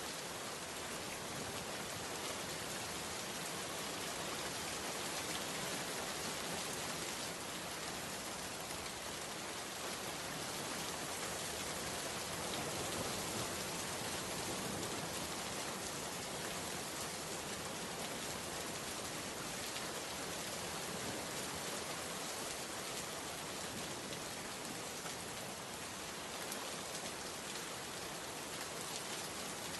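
Steady rain falling, an even hiss with faint drop ticks scattered through it.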